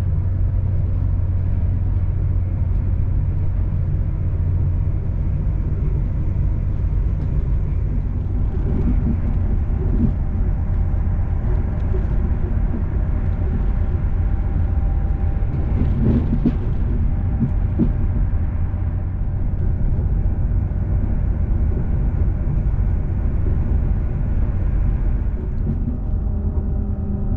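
Inside the saloon of a Class 221 Super Voyager diesel-electric tilting train running along the line: a steady low rumble from the underfloor diesel engines and the wheels on the rails, with a few short knocks around the middle.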